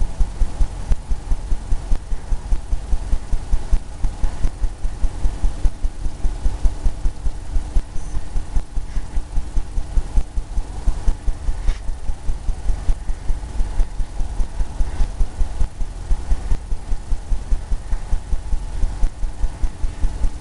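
Paint brush scrubbing back and forth on a stretched canvas, a steady rhythm of low thumps about three or four a second.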